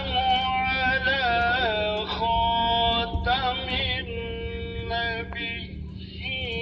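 Music with a singing voice holding long, wavering notes in short phrases, over a steady low hum.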